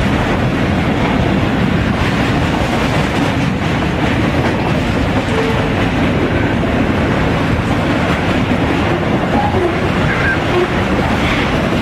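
Autorack freight cars rolling past: a steady rumble and clatter of steel wheels running over the rails.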